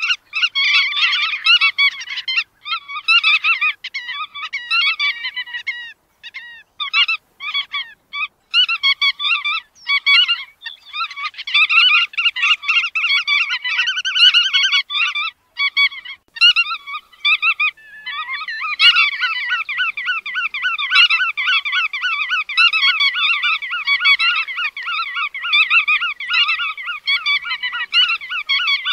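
Bar-tailed godwits calling: many short, nasal calls overlapping in a flock chorus. The calls thin out briefly about a quarter of the way in and again just past halfway, then run as a steady chorus through the last third.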